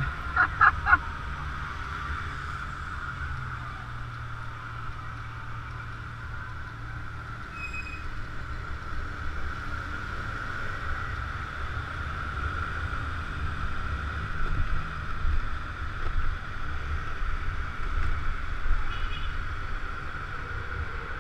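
Scooter engine running steadily under way, with a low rumble and wind on the microphone. Three short loud sounds come just under a second in.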